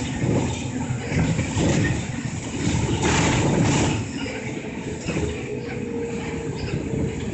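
Engine and road noise inside a moving city bus, with a loud rushing hiss a few seconds in and a steady whine in the last couple of seconds.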